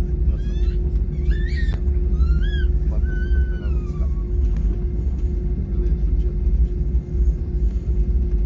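Steady low rumble of an airliner's cabin shortly after takeoff, with a constant hum running through it. In the first few seconds a handful of short, high-pitched squealing cries rise and fall over the rumble.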